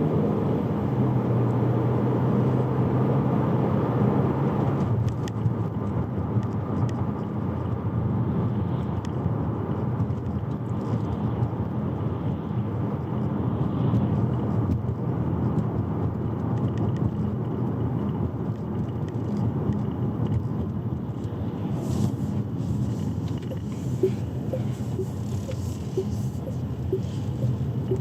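Chery Omoda 5 on the move: a steady low rumble of tyres and drivetrain with a low hum, a little louder for the first five seconds and then evening out.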